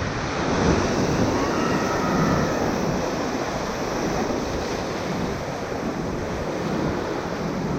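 Whitewater rapids rushing loudly and steadily around a raft on a high-water river.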